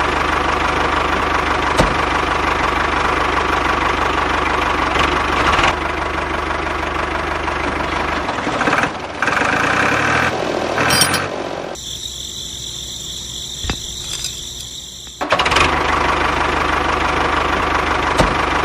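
Small engine of a DIY mini tractor running steadily. Partway through, the sound drops back for a few seconds to a quieter stretch with a high whine before the engine noise returns.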